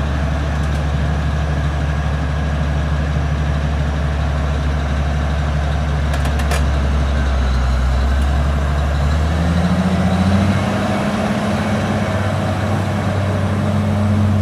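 Heavy diesel engine idling steadily, then picking up speed about two-thirds of the way through and holding at the higher, steady pitch.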